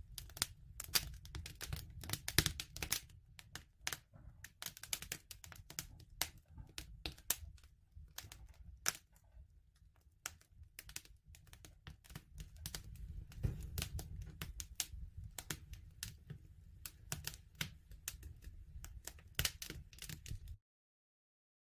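Campfire crackling: irregular snaps and pops over a low steady rumble of burning. The sound cuts out to dead silence near the end.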